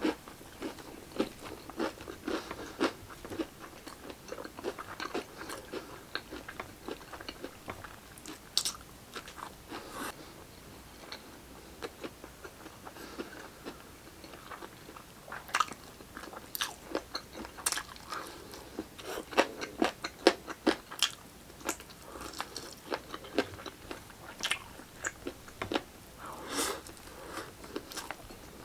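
Close-miked chewing and biting into crispy fried chicken: irregular crunches and wet mouth clicks, with a few louder sharp crunches.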